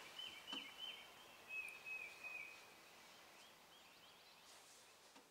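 Faint outdoor background with a small bird singing a quick run of short, high chirps over the first two and a half seconds, then near silence.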